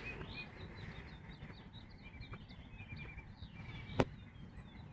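Faint birdsong: many short chirps repeating, with a single sharp click about four seconds in.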